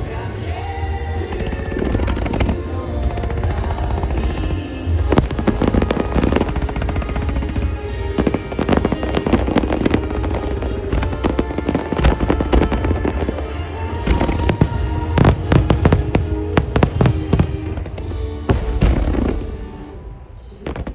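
Music starmine fireworks bursting in dense, rapid volleys over a pop song played through the show's loudspeakers. The bangs thin out and the sound falls away near the end.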